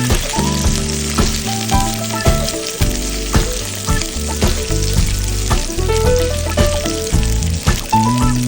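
Food sizzling as it fries, a steady hiss throughout, over instrumental background music with a bass line and a regular beat.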